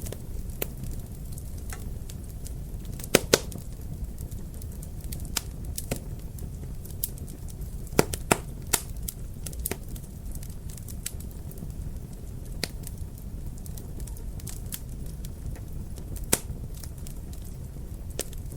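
Fire crackling in a fireplace: a steady low rumble with scattered sharp pops, the loudest a pair about three seconds in and a quick cluster around eight seconds in.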